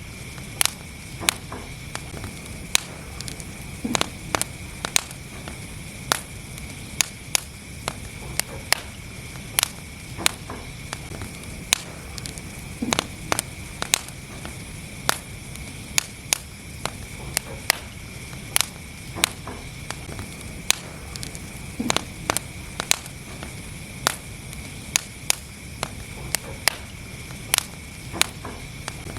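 Wood fire burning in a fireplace: a steady low rumble and hiss with frequent sharp pops and crackles, irregularly spaced, one or two a second.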